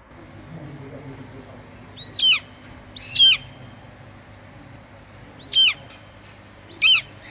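A bird calling four times, each a short, high call that falls in pitch, spaced one to two and a half seconds apart, over a faint steady hum.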